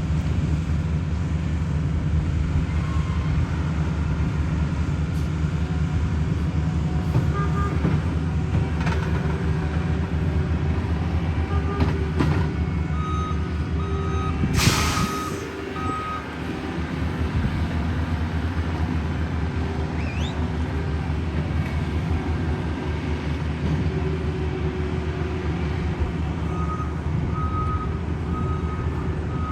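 Heavy diesel road-paving equipment running steadily, with a reversing beeper sounding in two spells, around the middle and near the end. A short loud hiss comes about halfway through.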